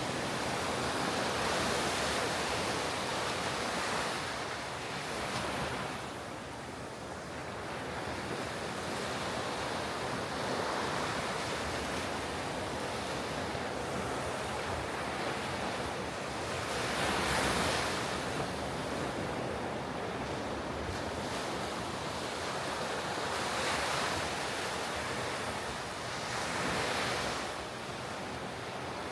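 Ocean surf breaking and washing on a beach: a steady rush of noise that swells as each wave breaks, about every six or seven seconds, with some wind on the microphone.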